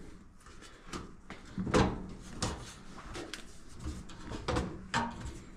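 Irregular knocks and clicks of parts of a Maytag Maxima XL dryer being handled and fitted back into place, about eight sharp strikes, the loudest a little under two seconds in.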